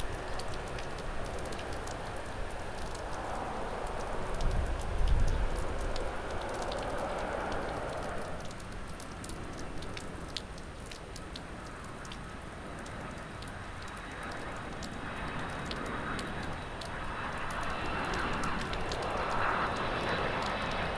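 Heavy rain hissing steadily, with scattered sharp drop hits close to the microphone. Under it, jet airliner engine noise: a low rumble about four to five seconds in, then, in the second half, the faint whine of an Airbus A330-323's Pratt & Whitney engines on approach, growing louder toward the end.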